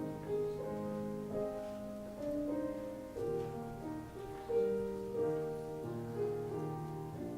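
Slow instrumental keyboard music, piano-like, playing held chords under a simple melody that moves every half second or so.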